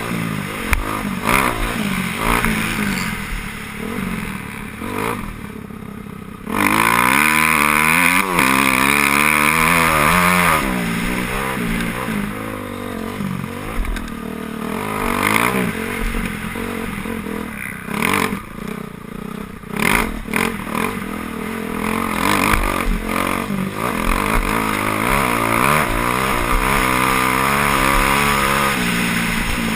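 Motocross bikes racing on the track, their engines revving up and down through the gears. One bike comes in suddenly loud about six seconds in and stays loudest for a few seconds as it passes close.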